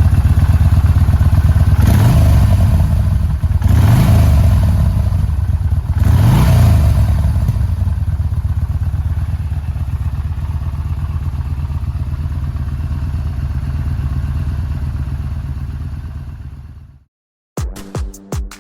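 Yamaha Bolt R-spec's air-cooled V-twin idling, blipped three times with the revs rising and falling back each time. The engine sound then fades out, and electronic music starts near the end.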